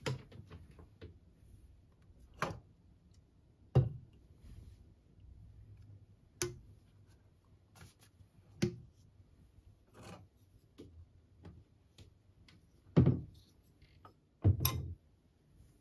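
Irregular light clicks and knocks of small objects being handled, with a few louder knocks, two of them close together near the end.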